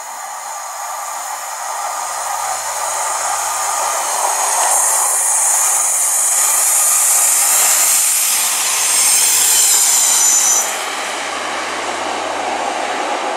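Two-car diesel multiple unit train approaching on the rails, growing steadily louder with a strong high hiss from the wheels, then passing close by; the sound drops sharply about eleven seconds in as it goes past and draws away.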